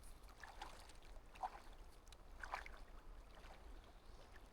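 Faint water sounds from someone wading through a shallow, cold river: a few soft splashes and sloshes against a low steady rumble.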